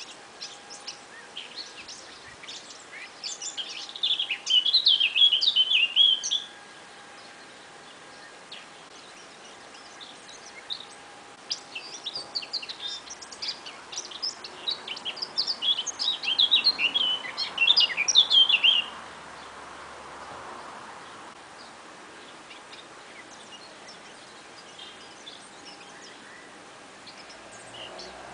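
A small songbird's rapid, high-pitched twittering, in two bouts: a short one about four seconds in and a longer, building one from about eleven seconds that stops abruptly near nineteen seconds.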